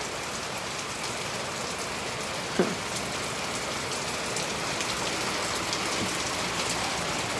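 Heavy rain pouring down steadily and pattering on a metal porch awning overhead, with scattered sharper drips. One brief short sound comes about two and a half seconds in.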